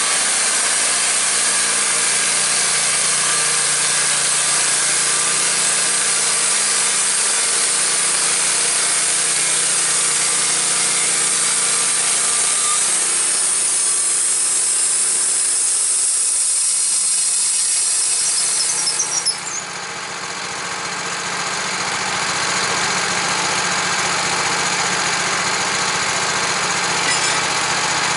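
Gas-engine saw ripping lengthwise through a log into boards, running steadily under load. About two-thirds of the way through the cut ends: the engine drops off with a few clicks and then settles into a steady, lighter run.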